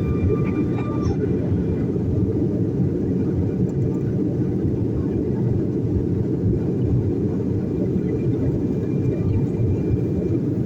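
Sukhoi Superjet 100's SaM146 turbofan engines at takeoff power, heard from inside the passenger cabin: a steady low rumble. A thin whine stops about a second in.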